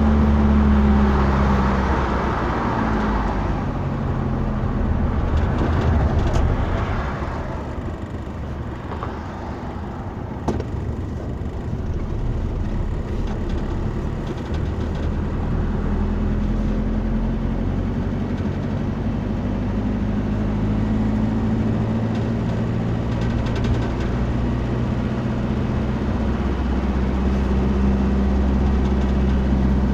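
Motor vehicle running, with a steady engine drone whose pitch drifts slowly up and down under even road noise. There is one short knock about ten seconds in.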